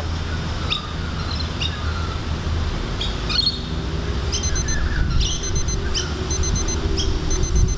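Birds chirping over and over, short falling calls about once a second, over a steady low rumble.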